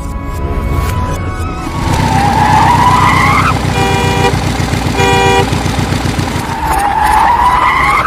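Cartoon-style vehicle sound effects: a low, rapidly pulsing engine rumble, a rising tyre-squeal-like whine twice, and two short horn honks about a second apart, over music.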